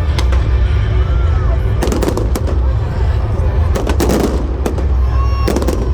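Fireworks going off: sharp bangs and crackles in clusters, about two seconds in, again around four seconds and near the end, over a continuous low rumble of booms.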